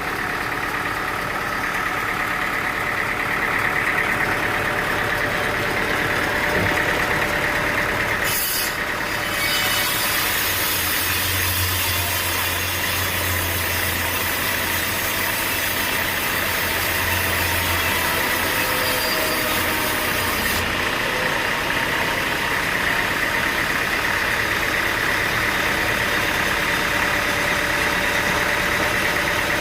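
Sawmill machinery running on a steady engine drone with a high whine. About eight seconds in a sharp burst and then a hiss join it, lasting until about twenty seconds in.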